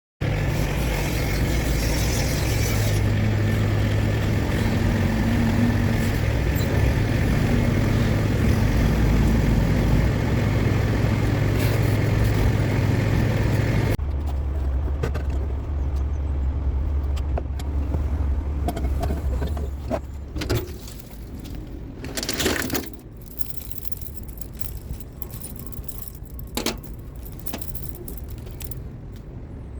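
A heavy engine running steadily, with metallic rattling and clinking over it. About halfway through it cuts to a quieter engine hum with a few scattered knocks and clinks.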